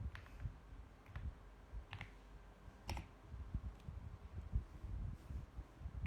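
Mechanical keyboard being typed on slowly and unevenly: separate key clacks a second or so apart, with a few quicker runs of keystrokes.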